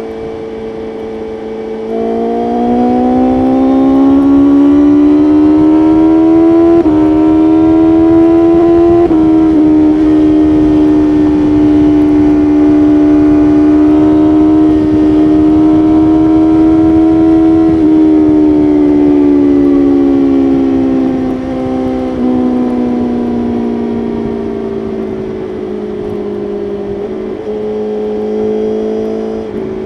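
BMW S1000RR inline-four engine under way. It accelerates with a rising pitch, with two short breaks in pitch about 7 and 9 seconds in, then holds steady. After about 18 seconds it eases off and the pitch falls, settling low near the end. Wind rush runs underneath.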